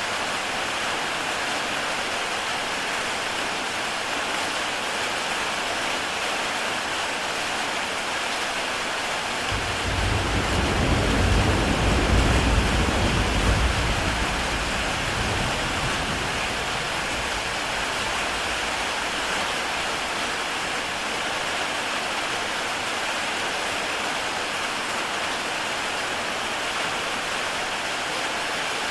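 Heavy rain falling steadily on a tile roof, an even hiss of many drops. About ten seconds in, a low rumble sets in suddenly, swells for a few seconds and fades away.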